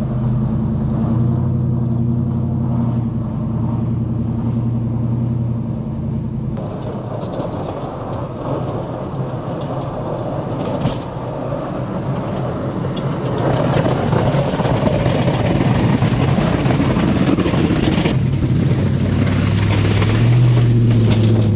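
Plow truck's engine running. From about six seconds in, a rough scraping noise builds as the plow blade pushes snow and ice, loudest in the second half, and the engine comes through clearly again near the end.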